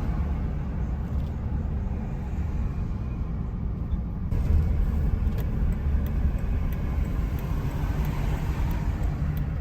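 Steady low rumble of road and wind noise from travelling along a town street.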